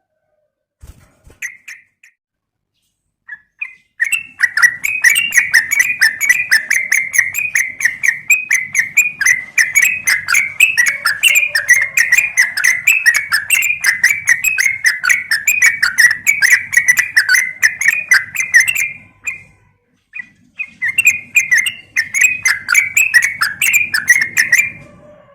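Yellow-vented bulbul (trucukan) calling in long, fast runs of chattering notes, several a second, after a few scattered notes at the start; the run breaks off about nineteen seconds in and starts again shortly after. It is a lure call of the kind the uploader presents as a female calling a male.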